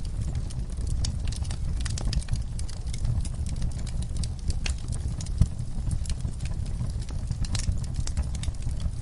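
Wood fire crackling with frequent sharp pops over a steady low rumble, with one louder pop about five and a half seconds in.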